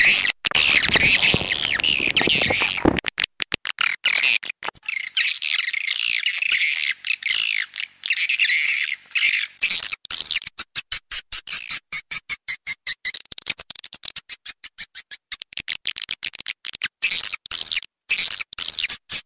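Swiftlet calling-sound recording: a dense chorus of high-pitched swiftlet chirps and twittering, breaking into rapid choppy pulses from about halfway in. It is a call played to lure swiftlets into a nesting house.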